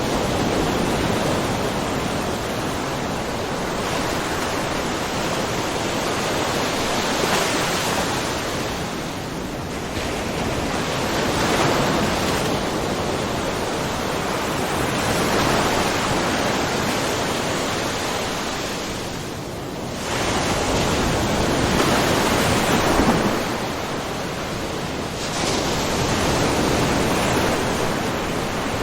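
Small ocean waves splashing in a rocky cove, a steady wash that swells and eases every few seconds, with one sharper surge about two-thirds of the way through.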